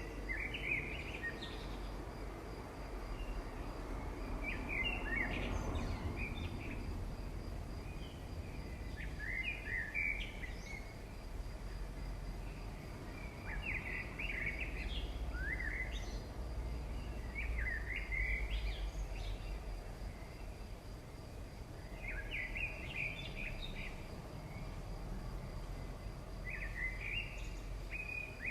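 A bird singing short chirping phrases, one phrase about every four seconds, over a steady low hum.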